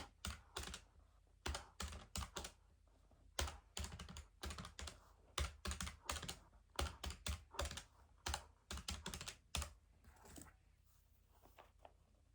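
Keys being typed in quick irregular runs of sharp clicks, with short pauses between runs, dying away to a few faint taps about ten seconds in.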